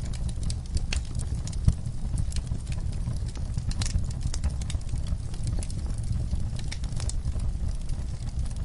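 Wood fire burning in a fireplace, crackling with irregular small pops over a steady low rumble of the flames; one sharper pop comes about a second and a half in.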